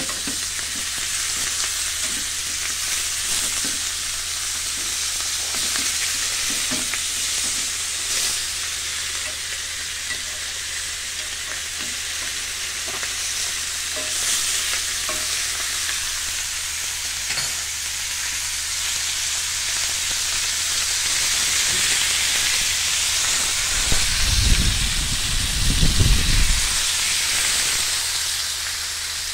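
Meat-stuffed pita (arayes) sizzling on a ridged grill pan: a steady sizzle with scattered small crackles. Near the end there is a low rumble lasting a couple of seconds.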